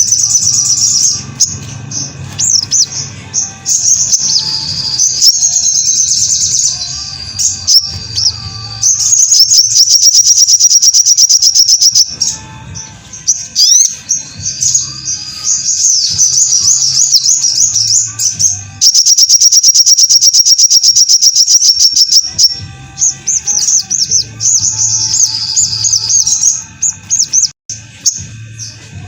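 Sogon (sogok ontong) bird song, as played for masteran: loud, rapid high chirps and fast trills in bursts, broken by short pauses, with a long unbroken trill about two-thirds of the way through. A low pulsing sound runs beneath the song.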